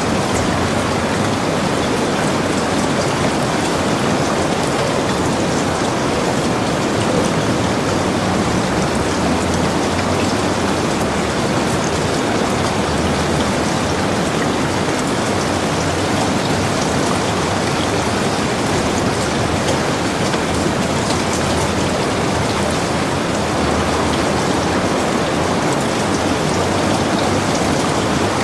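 Steady heavy rain falling on and around a log cabin, an even, unbroken hiss with scattered drop ticks.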